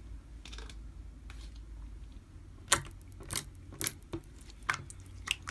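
Slime being pressed and handled, giving scattered sharp clicks and pops, about six in all, over a low steady hum.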